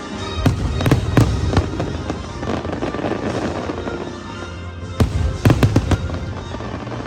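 Fireworks bursting over the show's music: several bangs in the first two seconds, a stretch of crackling around three seconds in, then a quick cluster of bangs about five to six seconds in.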